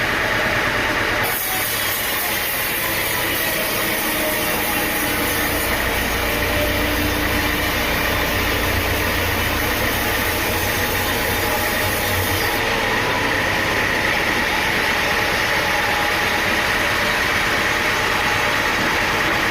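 Sawmill machinery running steadily with an engine-like hum. A high hiss comes in about a second in and stops about twelve seconds in, and a deep hum grows stronger through the middle.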